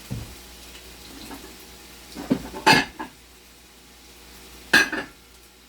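Kitchen utensils knocking against pans and dishes: a cluster of clatters about two and a half seconds in and another sharp one near five seconds, over the faint sizzle of breadfruit frying in oil.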